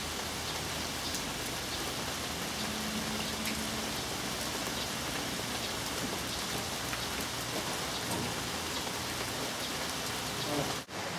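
Steady rain falling, an even hiss with scattered ticks of individual drops. The sound drops out briefly near the end.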